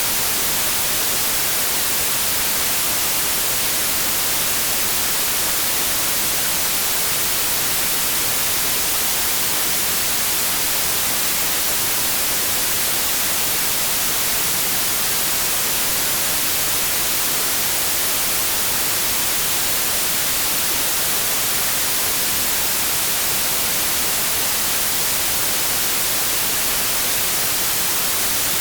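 Synthetic white noise: a steady, even hiss, strongest in the treble, with no change.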